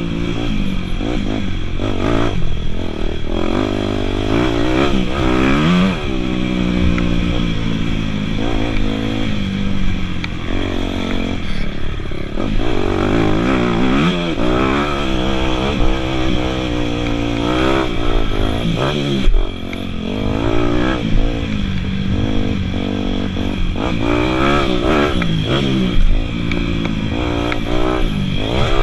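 Dirt bike engines running hard, their pitch repeatedly rising and falling as the riders rev, shift and back off, with more than one engine heard at once at times.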